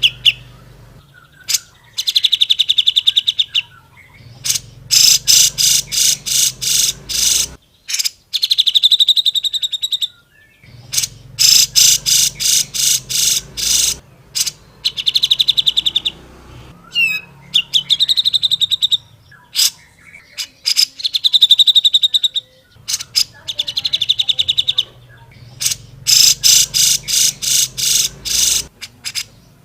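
Grey-cheeked bulbul (cucak jenggot) singing in loud, repeated bursts of fast, rattling chatter. Each burst lasts one to two seconds, separated by short pauses.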